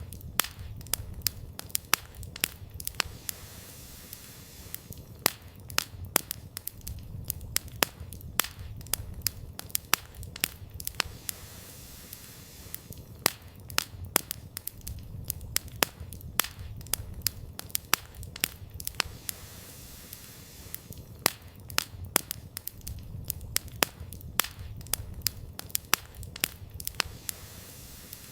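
Wood campfire crackling, with many sharp, irregular pops and snaps of burning firewood over a low rumble that swells and fades every several seconds.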